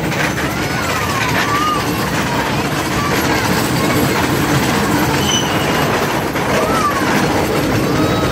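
Miniature passenger train rolling along its track, heard from an open car: a steady rumble of wheels on the rails.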